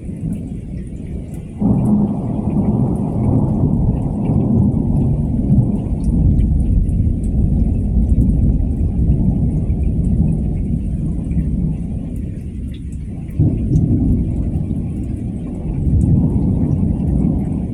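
Thunder: a sudden loud clap about a second and a half in that rolls on as a long low rumble, then a second clap a few seconds before the end. Rain falls throughout.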